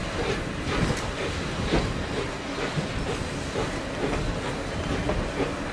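Steam-hauled passenger train rolling along the track, heard from an open-sided coach: a steady rumble with repeated knocks and clicks of the wheels over the rails.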